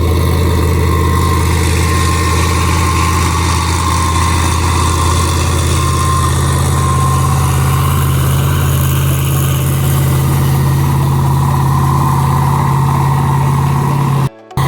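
A large engine idling steadily with a deep, unchanging hum. The sound breaks off briefly near the end.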